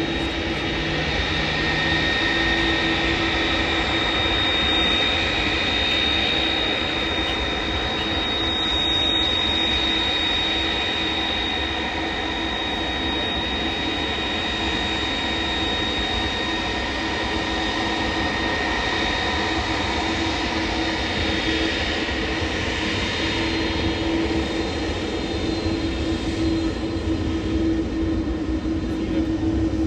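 Jet airliner engines running at high power: a steady, loud drone with a thin high whine and a lower hum, swelling slightly twice.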